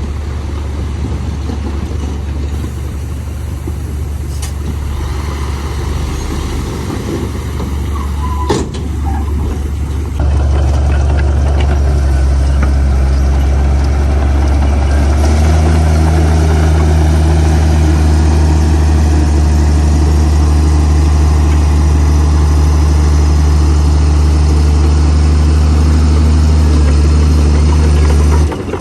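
Heavy diesel engine of earthmoving machinery running steadily with a low hum. It grows louder about a third of the way through and again about halfway, as under more throttle or load. There is one sharp knock a little before the first step.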